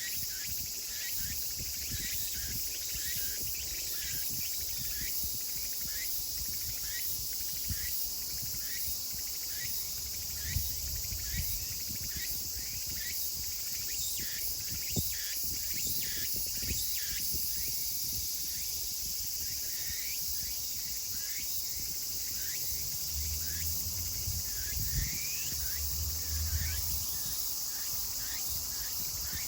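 A chorus of Meimuna opalifera (tsukutsuku-boshi) cicadas calling, their short repeated phrases coming about twice a second over a steady high-pitched drone, with a faint low rumble underneath.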